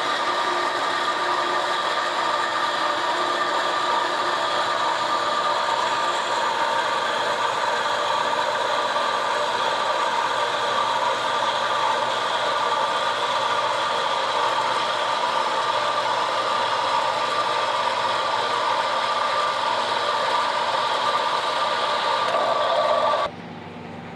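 Buffalo band saw running steadily, a mechanical whir with a steady high whine. It cuts off suddenly about a second before the end.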